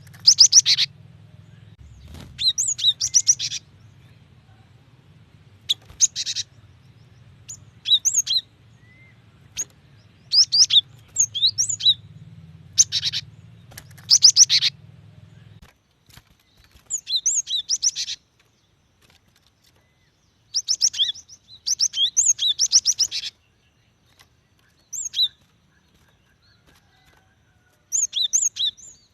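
Female cinereous tit (gelatik batu) giving its calls to attract a male: short bursts of fast, high chattering notes, repeated every second or two, with a faint low hum under them that stops about halfway through.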